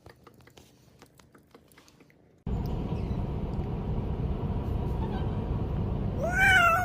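Faint clicks, then a loud, steady rumbling noise that starts abruptly a couple of seconds in. Near the end a cat gives one meow that rises and then falls.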